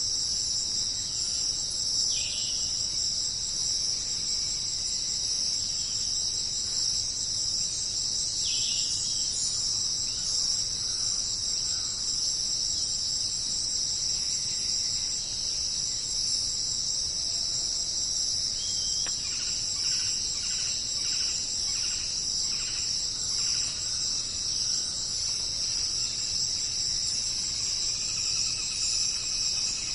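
A jungle insect chorus buzzing steadily at a high pitch. A few short calls from another animal come through, including a run of repeated calls about twice a second midway.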